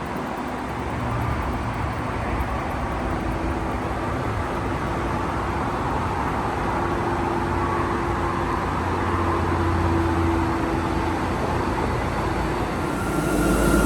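TEXRail diesel commuter train running, a steady rumble and rushing noise with a faint hum that climbs slightly in pitch. The sound changes abruptly near the end.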